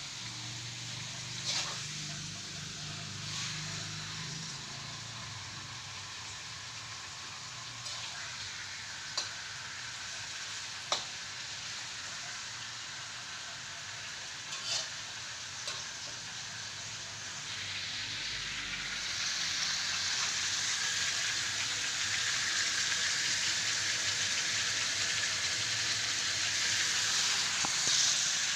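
Chicken sizzling in hot oil in a pan, a steady crackling hiss that grows louder about two-thirds of the way through. A few sharp clicks of a cooking utensil against the pan are heard now and then.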